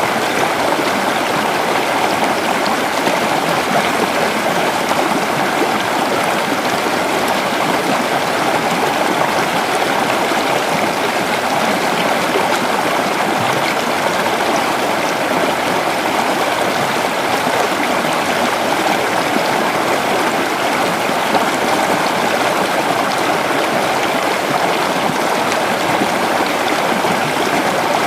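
Creek water flowing and burbling over stones in a steady, unbroken rush.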